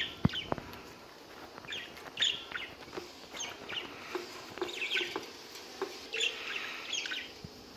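Budgerigars chirping in short, scattered high chirps, with a couple of sharp clicks just after the start.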